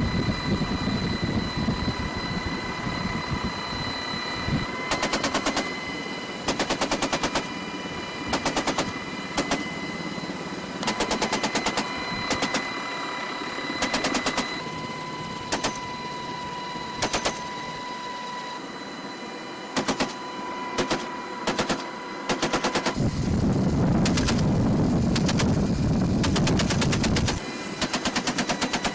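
A .50-calibre machine gun fired from a helicopter door in many short bursts of rapid, evenly spaced shots, over the helicopter's steady high whine and rotor noise. A louder low rumble joins for a few seconds near the end.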